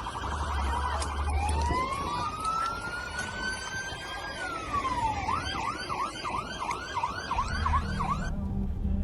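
Electronic emergency-vehicle siren: a fast warble, then a long wail that rises slowly and falls, then a rapid yelp of about three sweeps a second that cuts off suddenly near the end.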